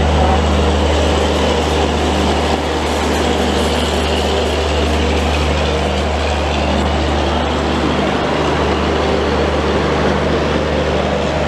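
Long-distance passenger train's coaches rolling past a platform as the train pulls out, the wheels running steadily on the rails over a constant low hum.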